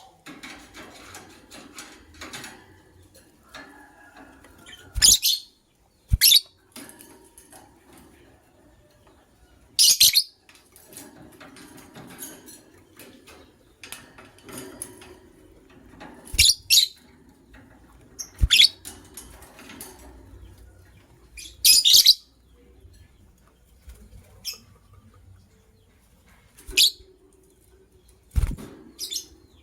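Pair of white lovebirds giving short, shrill chirps, about eight loud calls spaced through, with quieter movement and fluttering sounds between them.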